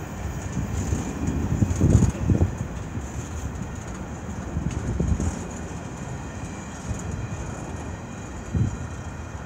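Freight train cars, covered grain hoppers and centerbeam flatcars, rolling past: a steady low rumble of wheels on rail, with heavier thumps about two seconds in, around five seconds and near the end.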